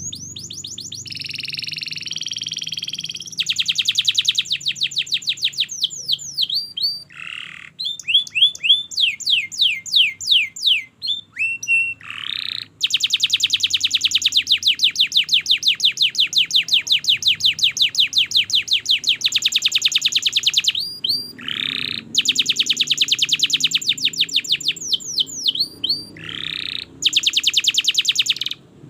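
Domestic canary singing a long continuous song: rapid trills and rolls of repeated notes alternating with sweeping whistled notes. The longest trill runs unbroken for about eight seconds from around the middle.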